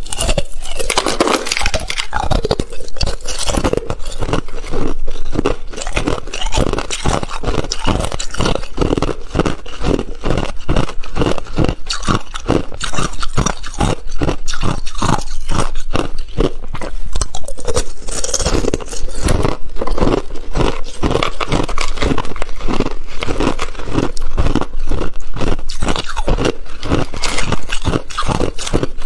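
Thin ice being bitten and chewed close to the microphone: a loud, continuous run of crisp crunches, several a second, with no pauses.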